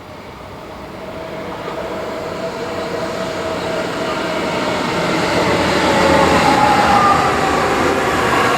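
A train approaching along the track, its rumble and steady whine growing steadily louder.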